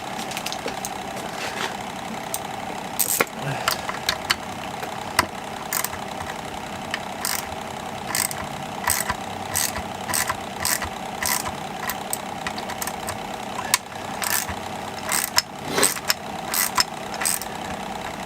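Irregular sharp clicks and taps of hands and tools working on a chainsaw's carburettor, over a steady background hum.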